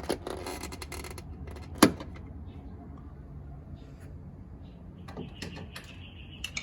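Plastic trim fastener being worked loose with a pry tool: scattered clicks and scraping, with one sharp snap about two seconds in as it pops free. A faint steady high tone starts about five seconds in.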